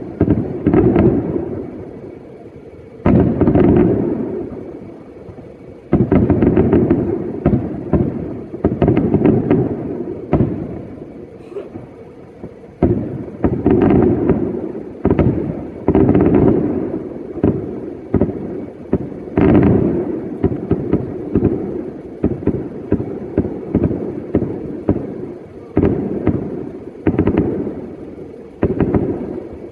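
Aerial fireworks bursting one after another: loud booms every few seconds, each trailing off in a rumble, with many smaller pops packed between them.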